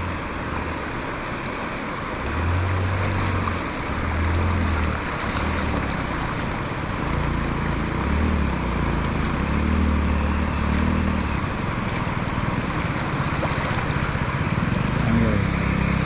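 Motorcycle engines revving up and down in bursts of a second or two, over a steady rush of water.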